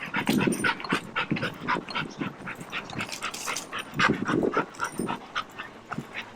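A dog panting quickly in short, rapid breaths while on a walk.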